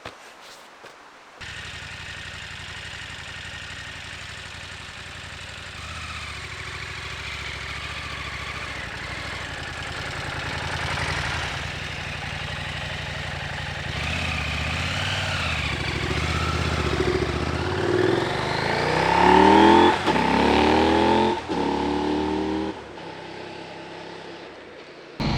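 KTM Norden 901 parallel-twin motorcycle engine running, then pulling away and accelerating, its pitch rising through several gear changes in the last few seconds.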